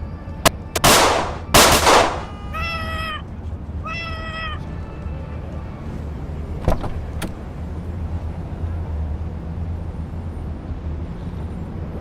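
Sharp cracks and two loud blasts like gunshots, followed by two short, pitched squawks from the pet bird, each under a second. Two more sharp cracks come a few seconds later.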